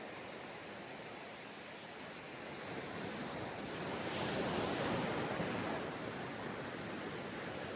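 Ocean surf washing onto a sandy beach, one wave swelling to break about four to five seconds in and then easing back to a steady wash.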